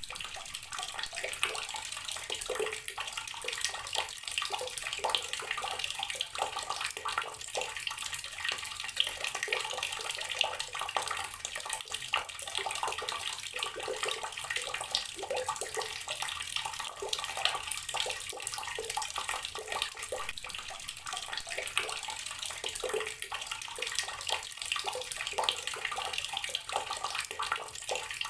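Water tap running steadily, the stream splashing unevenly into the water below.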